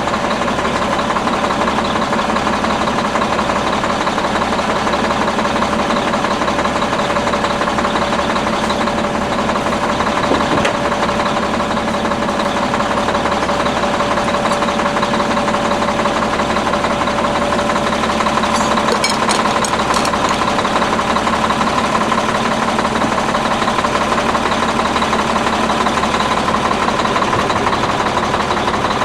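Detroit Diesel 6V92 two-stroke V6 diesel in an old Ford 9000 truck, idling steadily after its first start.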